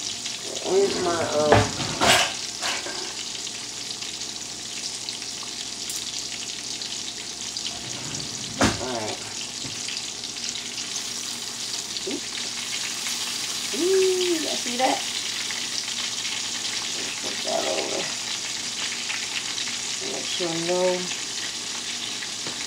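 Porgy and zucchini slices sizzling steadily in hot oil in a skillet. Metal tongs give a couple of sharp clicks against the pan as the pieces are turned.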